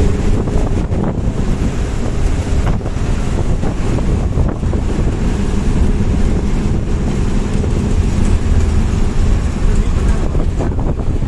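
Heavy wind buffeting the microphone on a moving bus, a loud steady rush over the bus's engine and road noise.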